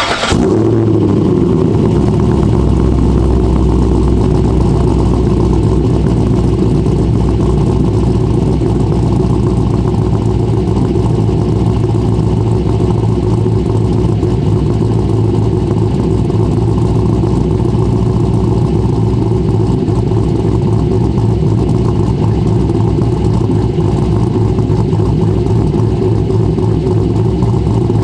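Corvette C6 V8 with a Stage 3 BTR camshaft, headers and X-pipe, running loud and steady at an even engine speed, after a brief flare in revs that falls away right at the start.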